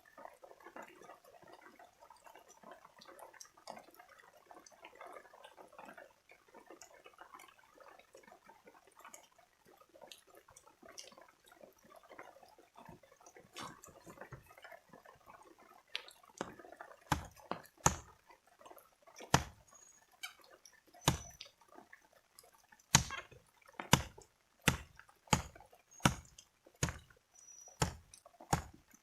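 Water dripping and pattering in small irregular ticks. About halfway through, a run of loud sharp knocks begins, roughly one a second and coming faster toward the end.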